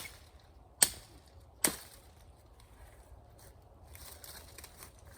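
Machete chopping branches off a felled tree trunk: three sharp strikes a little under a second apart, then a faint rustle of branches being handled.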